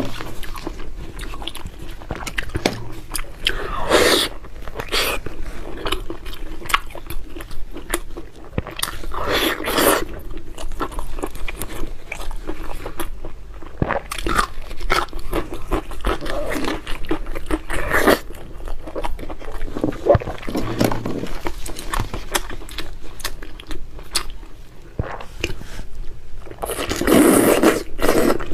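Close-miked chewing and biting of braised pork belly, with many wet mouth clicks and smacks. A few louder, longer mouth sounds come about 4 and 10 seconds in and again near the end.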